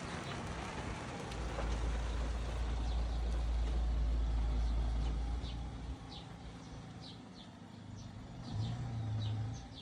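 A deep low rumble lasting about four seconds, then short high bird chirps repeated through the second half.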